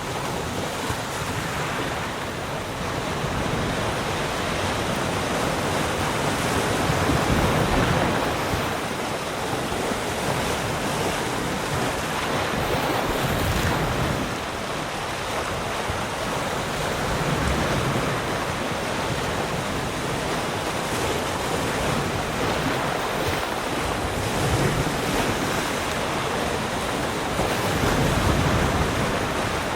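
Sea surf: waves breaking and washing ashore in a continuous rush that swells and ebbs every few seconds, with the loudest surges about a quarter of the way in and near the end. Wind on the microphone mixes in.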